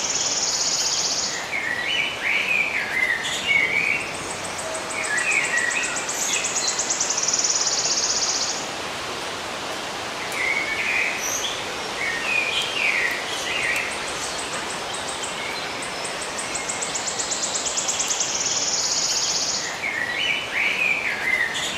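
Birds chirping in short phrases, while a high, fast buzzing trill comes and goes every several seconds, over a steady hiss of outdoor ambience.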